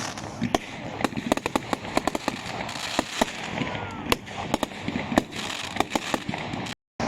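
Fireworks display: a rapid run of sharp bangs and cracks over continuous crackling. The sound cuts out completely for a moment near the end.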